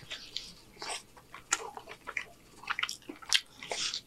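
Close-up mouth sounds of a man biting and chewing a burrito: irregular wet smacks and clicks.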